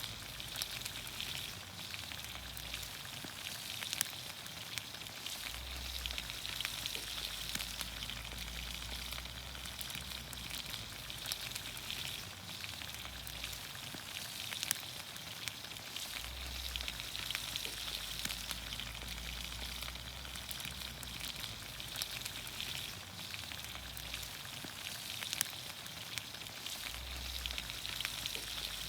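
Vegetables in olive oil sizzling steadily in a pan over a campfire, with scattered sharp pops and crackles through the hiss.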